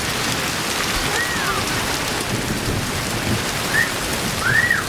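Hailstones pelting a deck in a hailstorm: a dense, steady clatter of countless small impacts.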